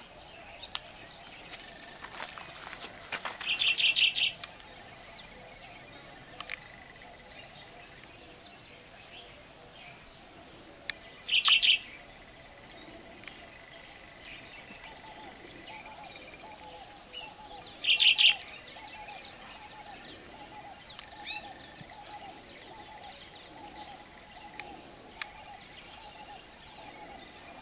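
Wild birds calling in open bush: a loud short call repeated three times about seven seconds apart, over many brief high chirps and a faint steady high tone.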